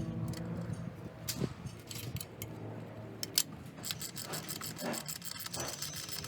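Light metallic clicks and scraping of tools and parts being handled, thickening into a rapid run of clicks over the last two seconds or so.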